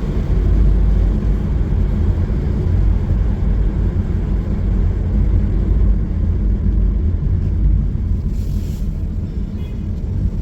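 Steady low rumble of a car driving through city traffic, with a brief hiss about eight and a half seconds in.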